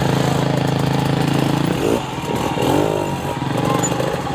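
Off-road motorcycle engine holding a steady note for about two seconds, then revving up and down in quick rises and falls of pitch.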